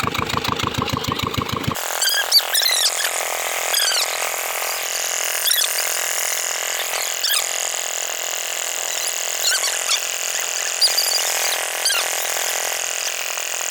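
A 20 hp single-cylinder diesel water-pump engine running with evenly spaced firing thumps, about six a second, which cut off abruptly under two seconds in. After that comes a steady hiss with scattered short high squeaks.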